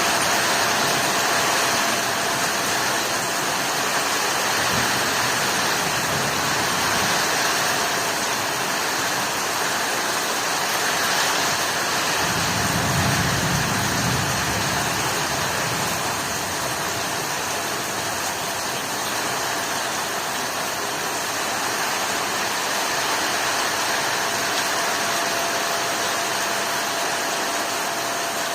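Heavy rain falling steadily in a storm, a dense, even hiss. A low rumble swells for a few seconds around the middle.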